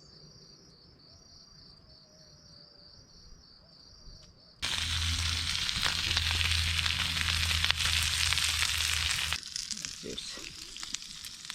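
Faint insects chirping in a fast, even pulsing rhythm. About four and a half seconds in, a loud sizzling hiss cuts in suddenly, runs for about five seconds and stops sharply, leaving softer crackling.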